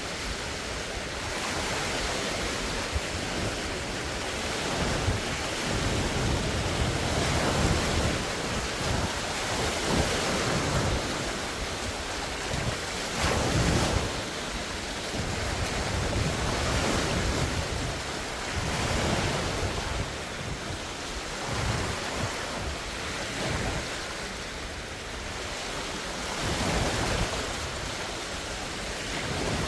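Large wind-driven lake waves washing and splashing against the shore, swelling and easing every few seconds. Strong wind rumbles across the phone's microphone in gusts.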